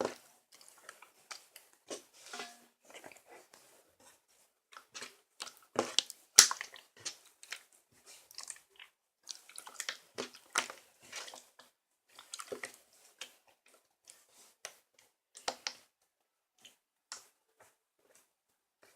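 Irregular crunching clicks and crackles in clusters with short gaps, thinning out toward the end.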